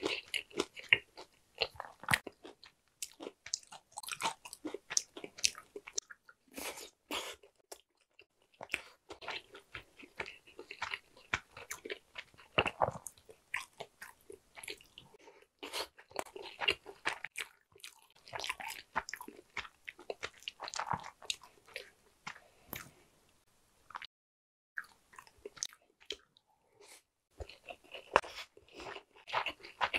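Close-miked chewing of sushi: wet mouth clicks, smacks and squishes in quick clusters, pausing briefly a couple of times.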